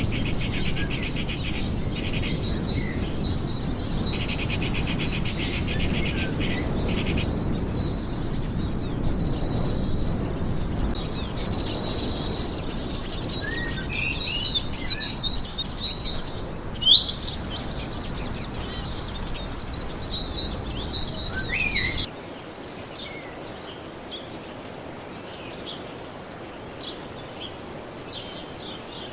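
Forest ambience of many birds chirping and whistling over a steady background hiss, with a fast rhythmic buzz early on. About three quarters of the way through it cuts abruptly to a quieter ambience with only faint, scattered bird calls.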